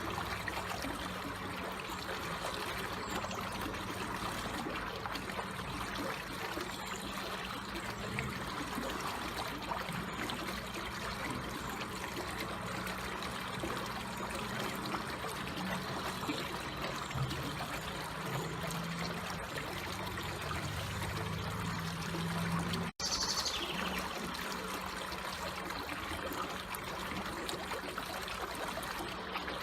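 Slowly flowing water trickling steadily, with a brief cut-out about three quarters of the way through.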